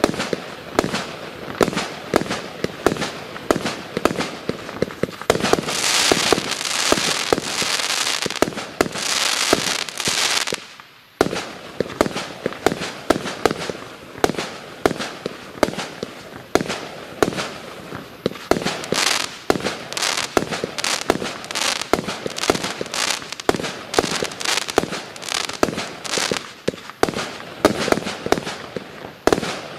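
A 130-shot, 20 mm firework cake firing a rapid barrage of shots, several pops a second. Two stretches of dense crackling hiss fill in between the pops, and there is a brief lull about eleven seconds in.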